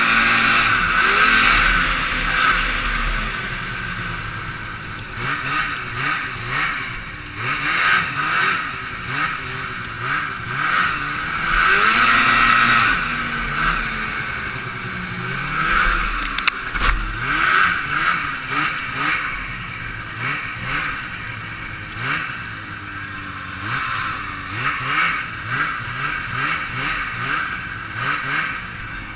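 Ski-Doo snowmobile's two-stroke Rotax engine revving up and dropping back over and over as the sled is ridden hard, its pitch rising and falling every second or two.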